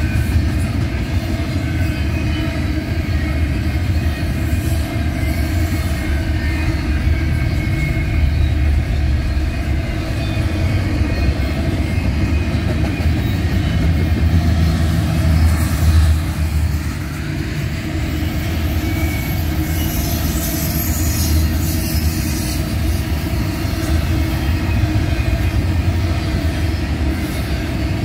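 Double-stack container train's well cars rolling past: a steady rumble of steel wheels on the rails, with thin high-pitched wheel squeal drifting in and out.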